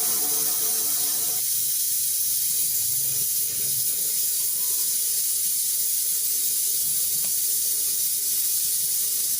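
A steady, loud hiss, like air or gas rushing out. Background music stops about one and a half seconds in.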